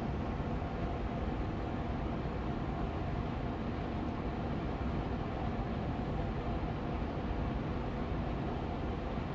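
Air purifier fan running steadily on medium speed: an even hum of rushing air, heaviest in the low end, with a faint steady tone in it.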